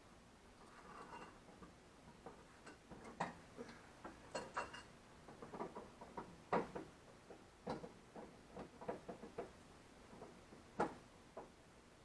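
Irregular light clicks and knocks, a dozen or more at uneven spacing, with two sharper knocks, one about halfway through and one near the end.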